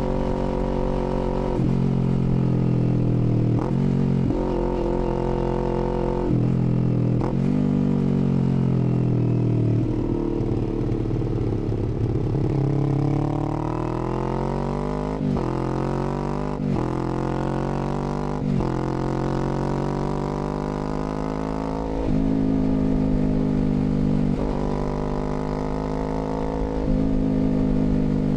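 Kawasaki Z400's parallel-twin engine under way: the revs ease off and fall for a few seconds, then climb hard through three quick upshifts, each a sudden drop in pitch, before settling into a steadier run with a few more gear changes near the end.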